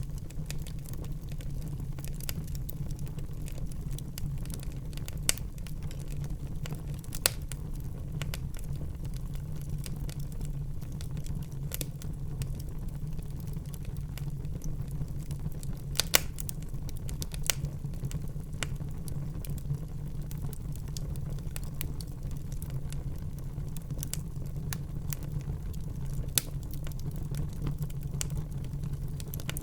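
Wood fire burning in a fireplace: a steady low rumble of the flames with scattered crackles and sharper pops, the loudest at about 5, 7, 16 and 26 seconds in.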